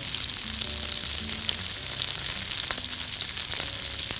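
Kofta (ground-meat patties) frying in a pan: a steady sizzling hiss with a few small pops.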